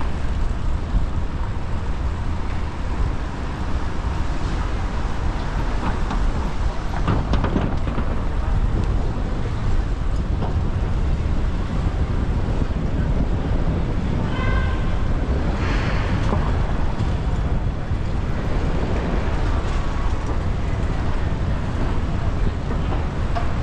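Steady wind rush on a GoPro's microphone while riding a bicycle through city traffic, with passing-vehicle noise underneath. A short pitched tone sounds briefly about two-thirds of the way through.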